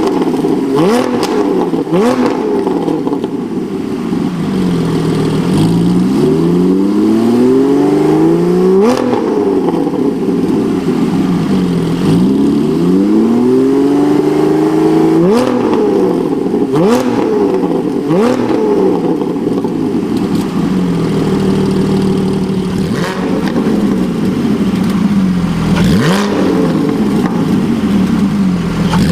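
Porsche 718 Spyder's naturally aspirated 4.0-litre flat-six revved repeatedly through a Power Craft valved exhaust. There is a run of quick throttle blips, two slower, longer climbs in revs that drop away sharply, more blips, then a steady stretch of held revs before a final blip near the end.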